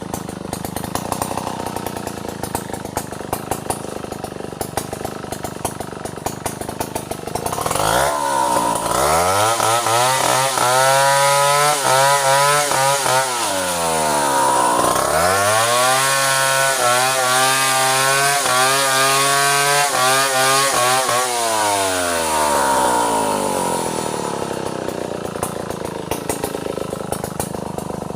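Two-stroke chainsaw idling, then revved to full throttle twice for about five to six seconds each, the revs dropping briefly between, before it winds back down to idle, as when cutting into a bintangor tree trunk.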